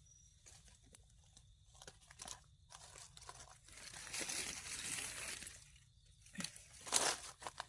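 Crunching and rustling of dry forest leaf litter and soil underfoot and by hand, with scattered small snaps, a longer rustle about four seconds in and a louder crackle near the end.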